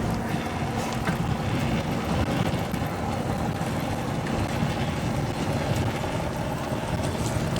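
A vehicle engine running steadily under continuous road and traffic noise, with a constant low rumble and a faint steady hum.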